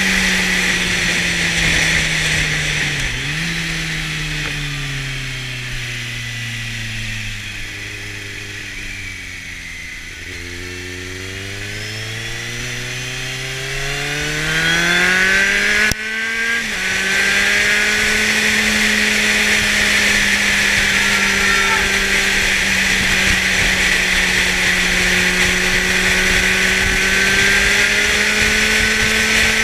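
Kawasaki Z750's inline-four engine through a LeoVince aftermarket exhaust, under way: it holds steady revs, then the revs fall off for several seconds and climb back up again. About sixteen seconds in there is a brief sharp drop and recovery, like a quick gear change, and after it the engine runs at steady cruising revs.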